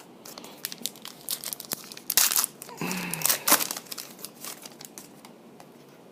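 Wrapper of a football card pack crinkling and tearing open, with cards clicking as they are handled; the loudest crackling comes about two and three seconds in.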